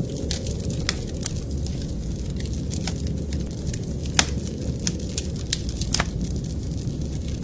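Wood fire crackling in a fireplace: irregular sharp pops and snaps, the loudest about four and six seconds in, over a steady low rumble.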